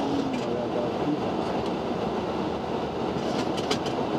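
Steady rush of airflow and engine noise in a Boeing 737-800 cockpit during the climb after takeoff, with a few light clicks near the end.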